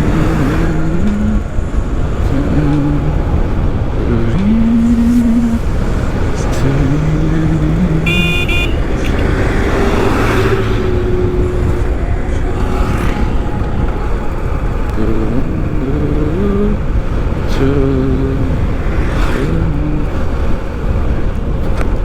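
Motorcycle riding along a road: a steady engine and wind rumble on the helmet-mounted camera, with a short horn toot about eight seconds in.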